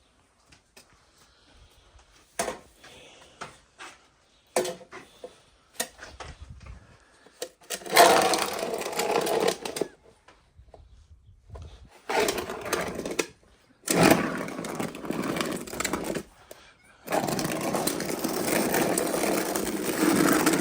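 Snow shovel scraping and pushing through deep snow in four long strokes, each lasting one and a half to three seconds, after some scattered knocks and clatter.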